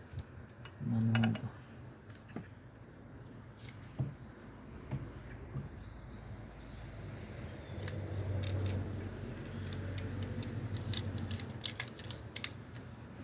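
Light clicks and small knocks of plastic fuel-line fittings being handled and fitted to a fuel filter, growing busier in the second half, with a low steady hum in the middle.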